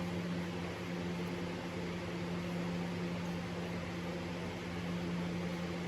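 Steady mechanical hum, a low even drone with fainter overtones over a constant hiss, as from a running motor or fan.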